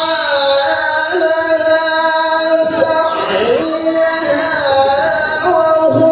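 A man's voice in melodic Quran recitation (tilawah), holding a long, high note with wavering ornaments and sliding down in pitch near the end.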